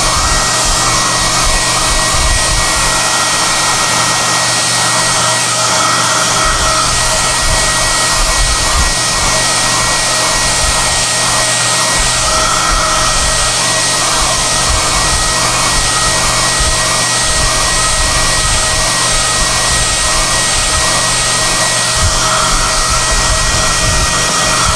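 SOUNATE high-airflow hair dryer running continuously while drying a cat: a steady loud rush of air with a thin high whine, the airflow sound wavering as the dryer is moved.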